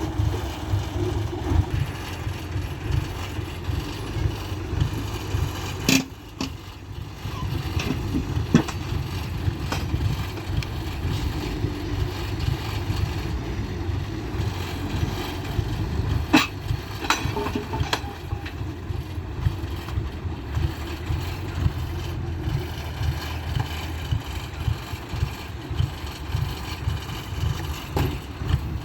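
Diesel engine of a loaded Mitsubishi Fuso dump truck running with a steady low rumble, with several sharp knocks scattered through it.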